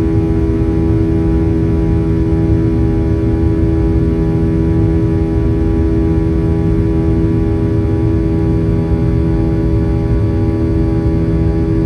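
Steady cabin drone inside a Boeing 737-800: its CFM56-7B engines and the airflow make a constant rumble with several steady humming tones.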